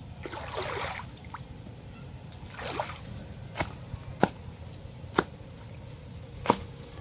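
Water splashing twice, then four sharp, separate clicks or knocks over a low steady rumble.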